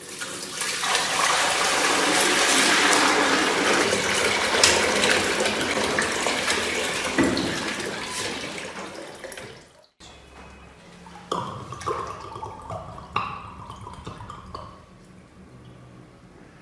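Rushing water, loud and even, swelling and fading away over about ten seconds; after a break, a few light knocks and clinks.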